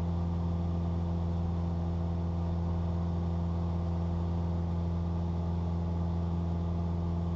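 Cessna 172's piston engine and propeller droning steadily in flight, with engine temperatures and pressures in the green, as heard in the cabin.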